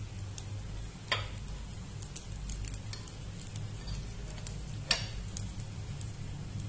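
Rava appe frying with a faint sizzle in an oiled appe pan, while a metal spoon turns them and clicks sharply against the pan twice, about a second in and again about five seconds in. A steady low hum runs underneath.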